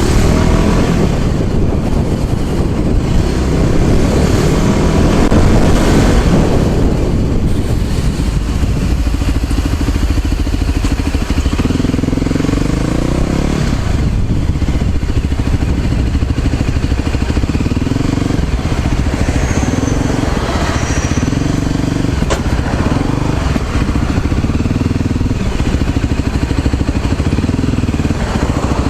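A motor vehicle's engine running while under way, with steady road noise. The revs rise through the first six seconds or so, then settle into a steady run.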